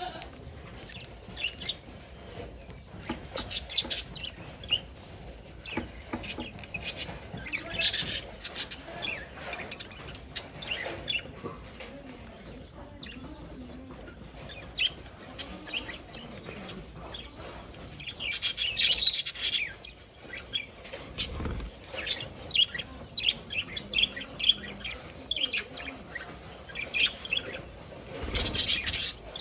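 Budgerigars chirping and chattering in many short high chirps, with louder bursts of dense chatter about two-thirds of the way through and again near the end.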